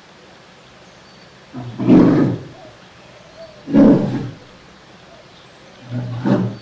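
Bear roaring three times, each a short rough low call about two seconds apart.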